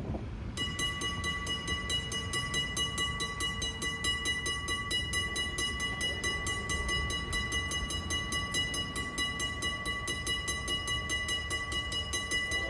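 Railroad grade-crossing warning bell that starts about half a second in and rings on in rapid, even dings, signalling that a train is approaching.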